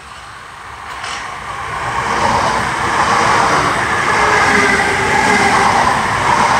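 A South Western Railway electric multiple-unit passenger train approaching and passing close by, growing louder over the first two seconds and then a steady loud run of wheels on the rails as the coaches go by.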